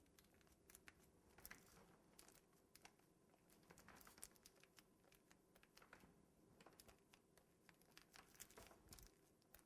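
Near silence with faint, scattered crinkles and small clicks: a buttercream piping bag being squeezed and handled while piping grass.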